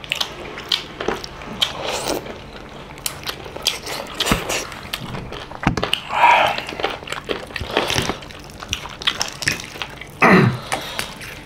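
Close-up eating sounds: chewing, biting and lip smacks as chicken curry with rice is eaten by hand and chicken pieces are torn apart, with many small clicks and two brief louder sounds about six and ten seconds in.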